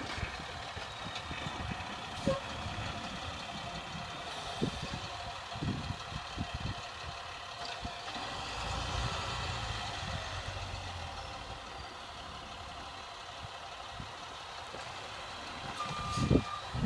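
International snowplow truck's engine running steadily at a moderate distance, with a slow swell in pitch in the middle. Near the end its reversing alarm starts beeping.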